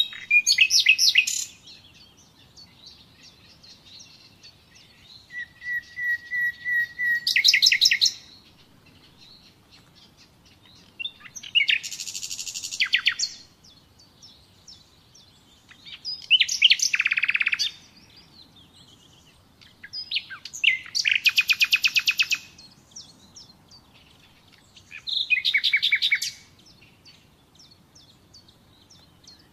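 Common nightingale singing: about six separate phrases of fast repeated notes and trills, each a second or two long, with pauses of a few seconds between them. One phrase opens with a run of even, level whistled notes that break into a rapid trill.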